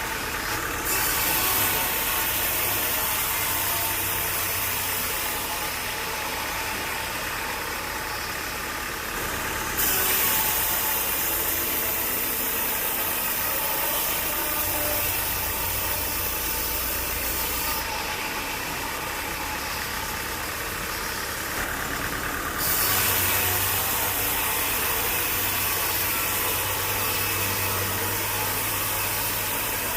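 A sawmill's engine running steadily, with a low hum and a hiss whose character shifts abruptly several times.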